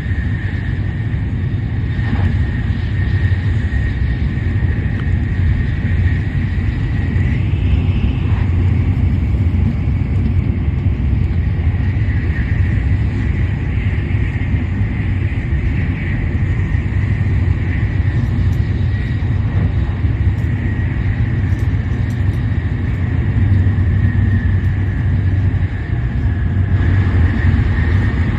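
Shinkansen high-speed train running at speed: a steady low rumble with a thin high whine held above it.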